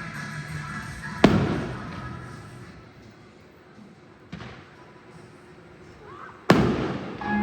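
Fireworks shells bursting in the air: a loud boom about a second in, a fainter one past the four-second mark, and another loud boom near the end, each trailing off, while the show's music fades out.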